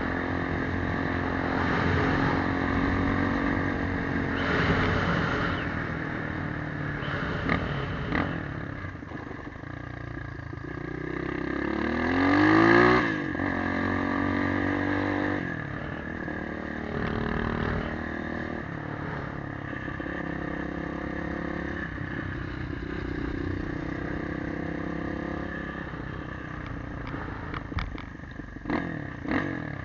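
Motorcycle engine running while riding, the engine note rising and falling sharply about twelve seconds in, which is the loudest moment. A run of sharp clicks near the end.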